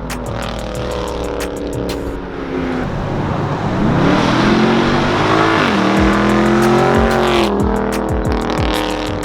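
Dodge V8 muscle car with its mid muffler deleted, accelerating hard: the exhaust climbs in pitch about three seconds in, stays high and loud for several seconds, then drops off near the end.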